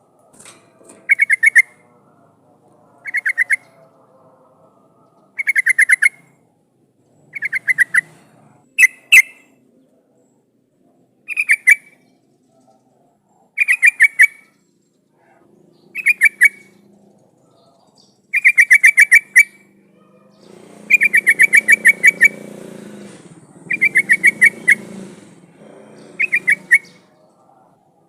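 Yellow-vented bulbul (trucukan) singing: short, loud phrases of rapid chattering notes repeated about every two seconds, a few phrases drawn out longer. A faint low rumble sits under the last third.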